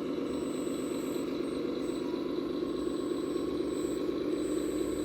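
Radio-controlled scale model vehicle running with a steady engine-like drone, over a faint high steady whine.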